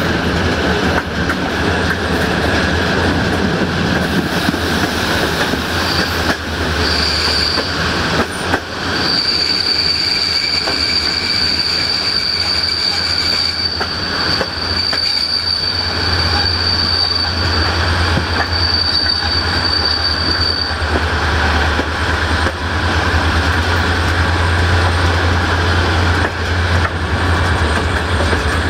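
Passenger train running on the rails, heard from an open coach window: a steady rumble of wheels on track. A thin, high-pitched wheel squeal joins about six seconds in and holds until about twenty seconds, as the wheels grind round the curve.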